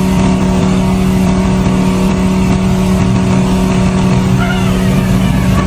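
ATV engine running at a steady speed under way; its pitch shifts and wavers near the end.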